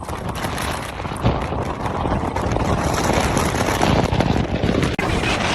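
Strong wind blowing hard, a dense rushing noise with heavy low buffeting on the microphone.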